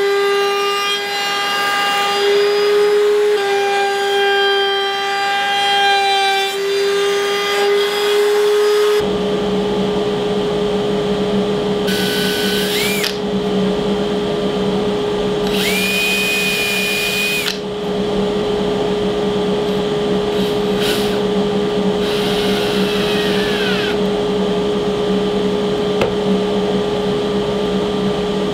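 A table saw runs steadily for about the first nine seconds, its hum wavering slightly in pitch as it cuts an end-grain board. Then a cordless drill runs in four short spurts, whining up to speed and winding back down, over a steady background hum.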